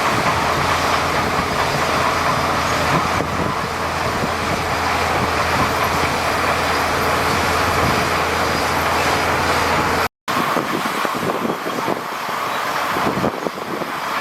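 Diesel engine of heavy earthmoving machinery running steadily under work. It cuts out for a moment about ten seconds in and comes back with less low hum.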